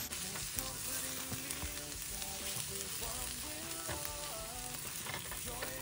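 Diced onions and bell pepper sizzling steadily in hot fat in a cast-iron skillet, with background music playing over it.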